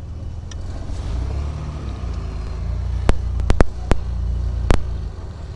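A 1967 Triumph Vitesse 2-litre straight-six engine running at low speed on the move, heard with the top down and rising a little in pitch about a second in. Five sharp clicks or knocks come between about three and five seconds in.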